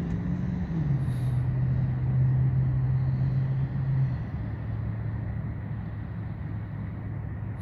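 CSX freight train's cars rolling past at a road crossing: a steady rumble with a low hum that drops slightly about a second in and fades over the last few seconds.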